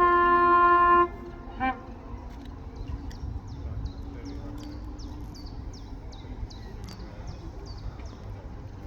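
Class 43 HST power car's two-tone horn ending on its high note, held for about a second, then one short toot. After it, a bird calls over and over with quick falling chirps, over a low rumble.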